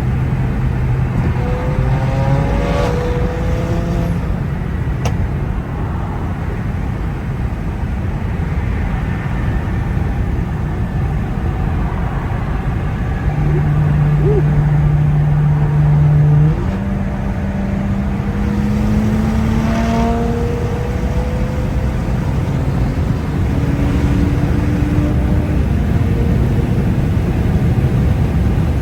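BMW N55 turbocharged straight-six with a straight-piped exhaust running while the car is driven, over steady road noise. The engine note holds steady at times, then steps up and climbs slowly in pitch as the car accelerates, around the middle and again later.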